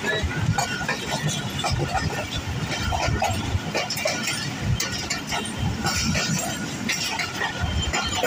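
Moving passenger train heard from a coach's open doorway: wheels running on the track with a steady rumble, and many irregular metallic clicks and clinks from the coach rattling as it rolls.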